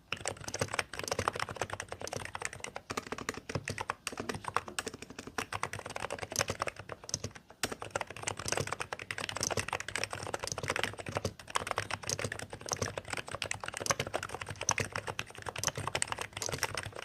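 Hansung GK868B capacitive (Topre-style, 무접점) keyboard being typed on in a fast, steady run of keystrokes, with a brief pause about seven and a half seconds in.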